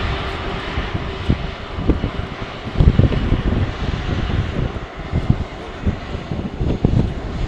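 Airliner jet engines running, a steady rushing hiss, with strong gusts of wind buffeting the microphone in irregular low thumps.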